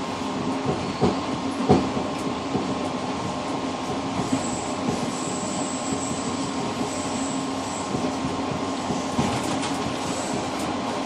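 Passenger train running on the rails, heard from inside the rear driver's cab of the tail car: a steady rumble and hum, with two sharp knocks about one and two seconds in and a faint high squeal coming and going through the middle.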